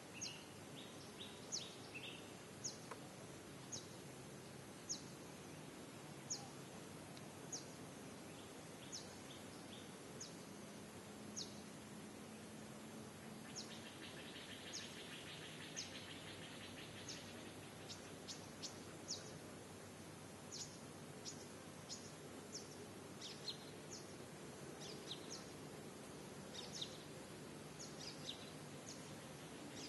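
Faint background ambience of birds chirping: short, sharp, high notes falling in pitch, repeated irregularly about once a second over a steady hiss. A brief buzzing trill comes in from about fourteen to seventeen seconds in.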